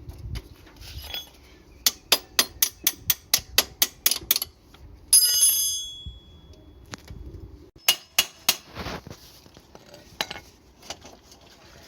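Metal hand tools working on a motorcycle engine: a quick run of about a dozen metallic clicks, roughly five a second, then a single ringing metal clink, followed by a few scattered clicks.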